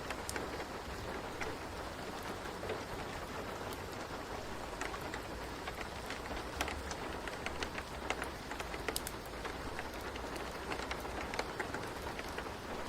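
Steady rain ambience with many scattered short, sharp ticks and crackles, as from a wood fire burning alongside the rain.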